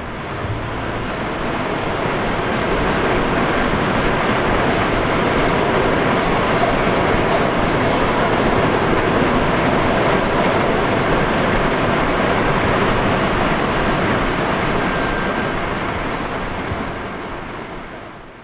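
Steady, dense rushing noise of bottling-line machinery filling and conveying sauce bottles, with no distinct rhythm. It fades up over the first couple of seconds and fades away near the end.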